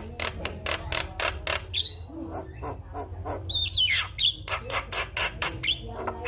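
Javan myna (jalak kebo) singing: a fast run of dry clicks and chatter, broken by whistled notes that bend up and down, twice.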